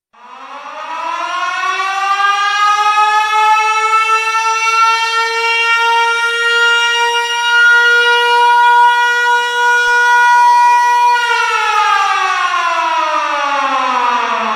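Air-raid siren winding up, rising in pitch over the first few seconds to a steady loud wail. About eleven seconds in it begins winding down, falling in pitch.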